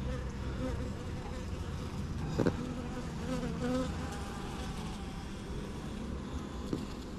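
Honeybees buzzing around an open hive, the buzz rising and falling in pitch as bees fly close past. A single sharp knock comes about two and a half seconds in.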